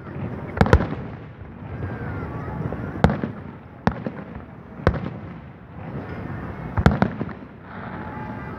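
Aerial fireworks shells bursting in sharp bangs every second or two, about seven in all, two of them in close pairs, with a continuous noise between them.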